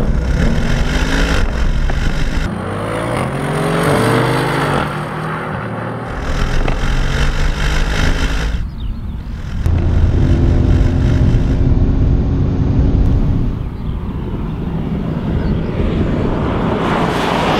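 Two twin-turbo V8 cars, a Mercedes-AMG C63 S and an Audi RS6 performance, accelerating hard side by side in a drag race. The engine note climbs and drops back at each upshift, and the sound changes abruptly several times.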